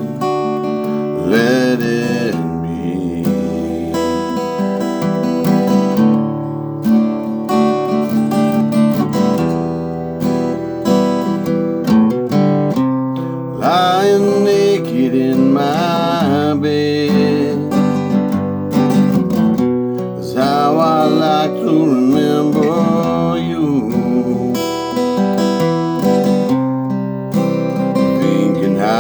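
Acoustic guitar strummed and picked in a passage between sung lines, with a few wavering higher notes held about halfway through and again near the end.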